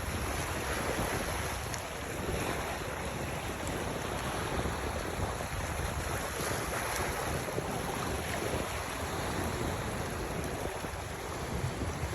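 Steady wind and water noise, an even rushing with no distinct events.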